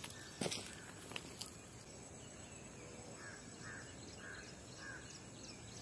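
Faint outdoor ambience: a few soft knocks in the first second and a half, then a bird calls four times, each call short and about half a second apart.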